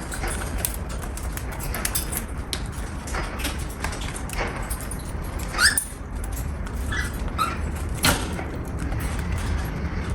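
A cockatiel gives one quick rising chirp a little past the middle and two short calls about a second later, among scattered light clicks and taps.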